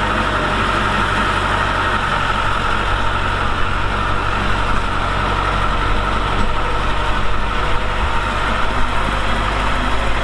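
Heavy construction machine's diesel engine running steadily, a low, even engine drone with no clear revving.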